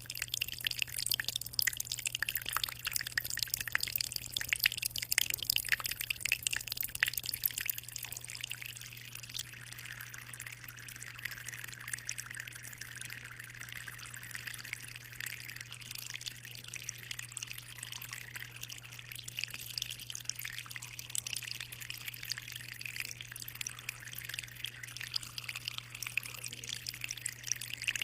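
Water trickling and splashing in a 60-litre aquarium, busy and dripping for the first several seconds, then settling into a softer, steadier trickle. A steady low hum runs underneath.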